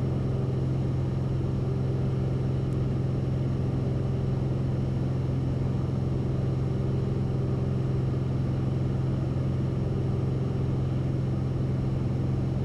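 Cessna 172RG's engine and propeller heard in the cockpit during a climb-out at full power, a steady low drone with an unchanging pitch.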